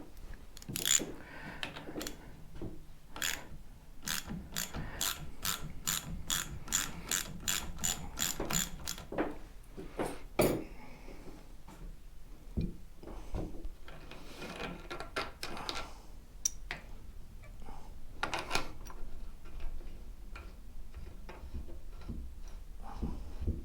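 Socket ratchet clicking as a fork cap is worked down onto a motorcycle fork tube, with a steady run of about two to three clicks a second for several seconds and scattered metal knocks and handling noises around it. The cap is being forced down against the fork spring.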